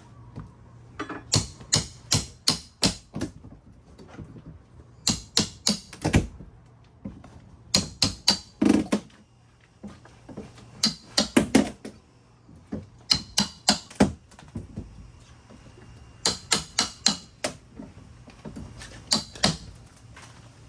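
Hammer blows on wooden wall siding, struck in quick bursts of four to six at a time, with short pauses between the bursts, as the panel is being broken open.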